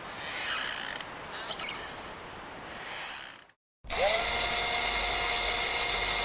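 A noisy mechanical sound stops about three and a half seconds in. After a brief silence, a small electric motor, like a power drill's, starts up: its whine rises for a moment and then runs steady and loud.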